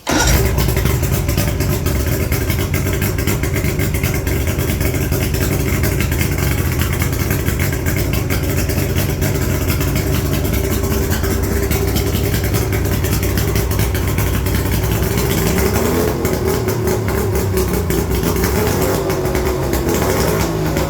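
1987 Mercury 80 hp inline three-cylinder two-stroke outboard motor running steadily, coming in abruptly at the start.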